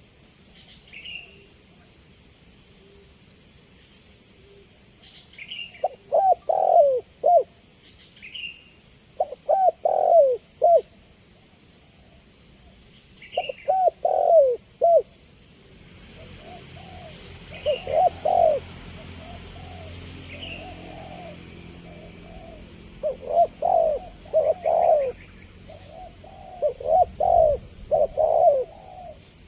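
Spotted dove (tekukur) cooing: short phrases of several low coos repeat every few seconds, from about six seconds in, more closely spaced in the second half. Faint higher chirps of small birds sound between them over a steady high hiss.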